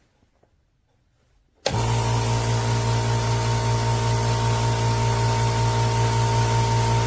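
Nessxa 8-gallon 1.5 hp oil-free quiet air compressor switching on abruptly a little under two seconds in, then running at a steady pitch with a low hum and an even airy hiss.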